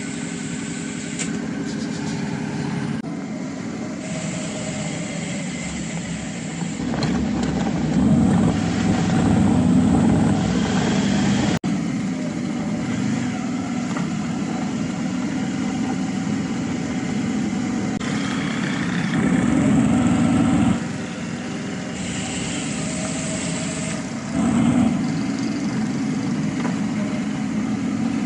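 Suzuki V-Strom 650's V-twin engine running while riding through town traffic, swelling louder a few times as it accelerates.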